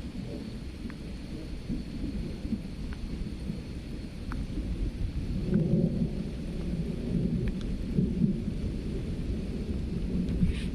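Thunder rumbling low and long through a thunderstorm, swelling about halfway through, over steady rain.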